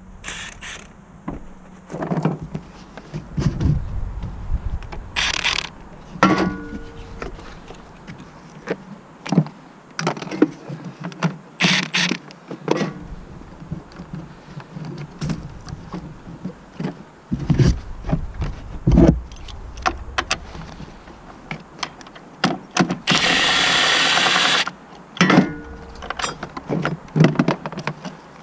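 Metal tools and car parts clinking, knocking and clicking as a mechanic works on the car, with a few heavier low thuds. Near the end comes a loud burst of hissing, whirring noise lasting about a second and a half.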